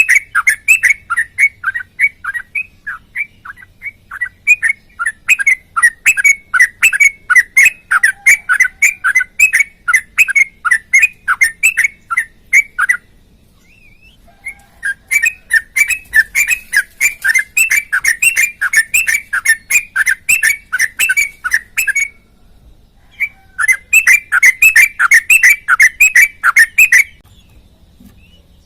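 Yellow-vented bulbul (trucukan) singing a long, rapid run of repeated chirping notes, about four a second. It breaks off twice and stops near the end.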